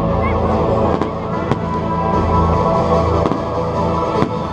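Aerial fireworks bursting in a series of sharp bangs over steady music.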